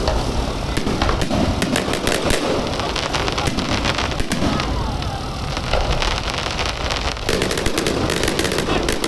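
Aerial fireworks going off in quick succession: a dense run of sharp cracks and pops with a low rumble beneath.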